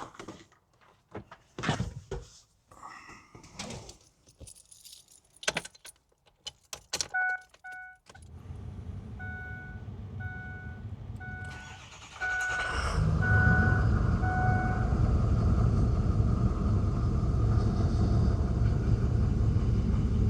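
Keys jangling and clicking, then the truck's warning chime beeping about once a second. About 12 seconds in, the 6.0 L Power Stroke V8 turbo-diesel starts and settles into a steady idle. The engine is being run again after a coolant drain and refill to cycle the system and check whether the coolant level drops.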